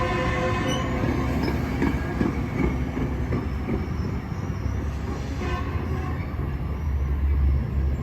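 Metrolink commuter train pulling out, its diesel locomotive running and the cars rumbling over the rails. A steady tone fades about a second in.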